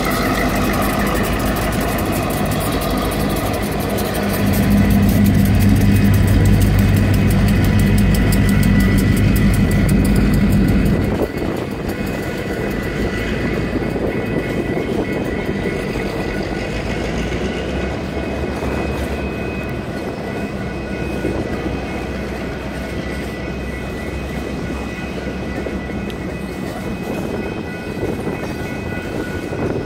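Union Pacific GP38-2 diesel locomotive, an EMD 16-cylinder two-stroke, running as it rolls slowly over the crossing, with a heavy engine rumble that drops off sharply about eleven seconds in. Freight cars then roll past with a steady wheel and rail noise. A grade-crossing electronic bell keeps ringing over it all.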